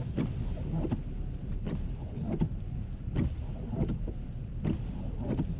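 Windshield wipers swishing back and forth at a steady beat, about one stroke every three-quarters of a second, over the low steady rumble of the car driving, heard from inside the cabin.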